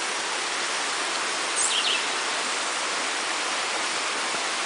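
Steady rush of a waterfall's falling water, with a brief high chirp about one and a half seconds in.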